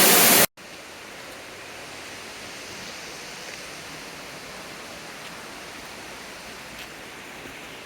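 A waterfall rushing loudly until a sudden cut about half a second in, then a quieter, steady rush of flowing water.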